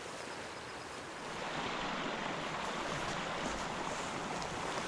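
Steady rushing of flowing water from a nearby stream, growing a little louder about a second and a half in.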